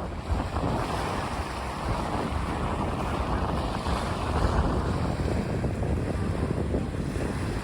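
Wood campfire burning with a steady, dense crackle, and wind buffeting the microphone.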